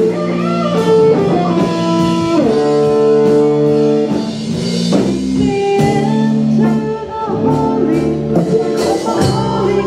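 Live band music led by guitar, with chords and lead notes over a light drum kit beat.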